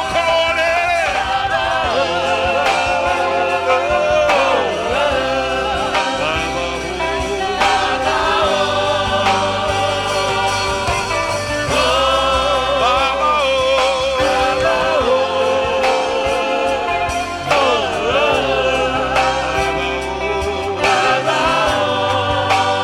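Gospel music: a choir singing a worship song over a steady bass accompaniment.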